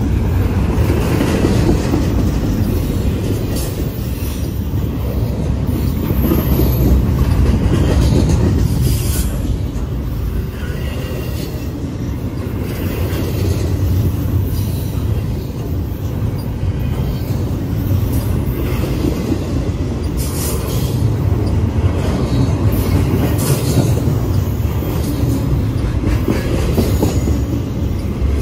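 CSX double-stack intermodal train of container well cars rolling past close by: a steady low rumble of steel wheels on rail that swells and eases, with a faint wheel squeal now and then.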